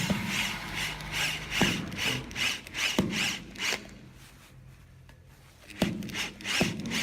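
Rhythmic back-and-forth rubbing strokes on wood, about three a second, stopping after about four seconds. Sharp knocks follow near the end.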